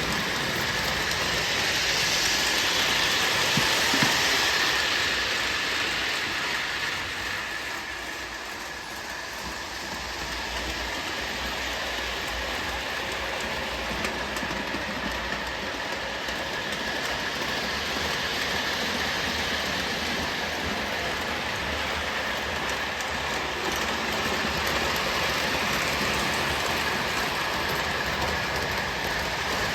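O gauge model train, a Williams by Bachmann FM Trainmaster diesel pulling box cars, running on its track: a steady rushing of wheels on rail and motor whir. It swells to its loudest a few seconds in, fades to its quietest about eight seconds in, then builds back up as the train comes around again.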